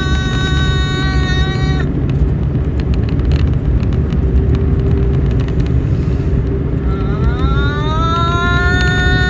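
A voice toning a long held note that breaks off about two seconds in, then comes back near seven seconds with an upward slide into another held note, over a steady low rumble.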